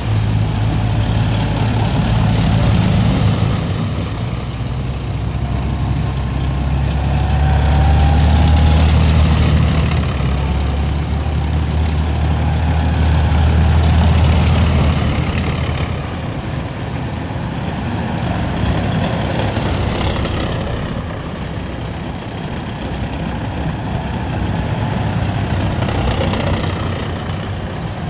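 Column of heavy military vehicles driving past, deep diesel engines running loudly and steadily. The loudest pass comes about a third of the way in and eases off just past halfway, with the next vehicles following.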